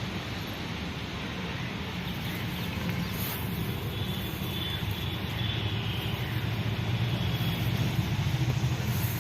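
Motor vehicle noise outdoors: a steady low engine rumble that gets somewhat louder in the second half.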